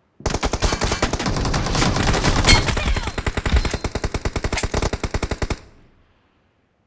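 Rapid automatic gunfire in a first-person shooter video game: one long stream of shots that starts a moment in and stops about five and a half seconds in.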